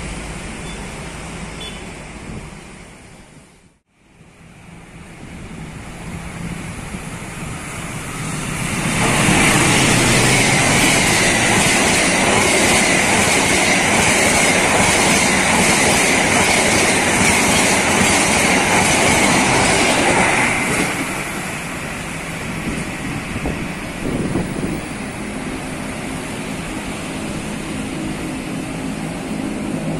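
Passenger train passing close at speed. The sound swells over several seconds into a loud, steady rush of wheels on rail with a regular clatter of the coaches over rail joints, then drops away sharply about 20 seconds in, leaving a lower rumble. A brief near-silence comes about 4 seconds in, before the train is heard approaching.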